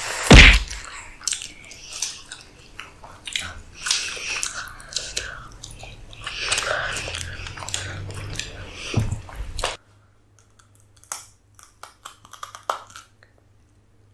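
Close-miked eating sounds: biting, crunching and wet chewing with dense clicks and smacks, after a loud thump just after the start. Near ten seconds the sound drops off abruptly to a few faint chewing clicks.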